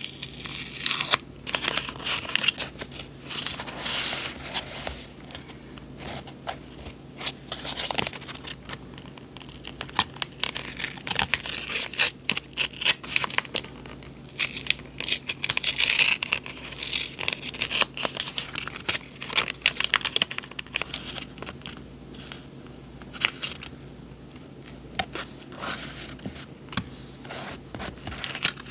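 Paper being handled close up: irregular rustling, crinkling and tearing, with many small sharp clicks, over a faint steady low hum.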